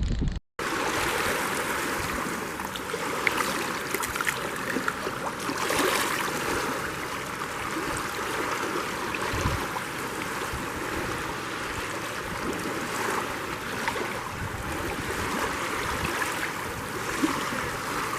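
Choppy, wind-driven lake water lapping and splashing in whitecaps: a steady rushing wash with scattered small splashes.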